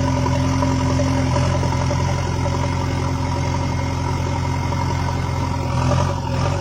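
Vehicle engine idling steadily: an even, low, unchanging hum.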